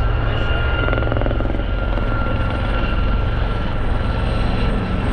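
Helicopter in flight nearby: a steady rotor thrum with a constant high turbine whine.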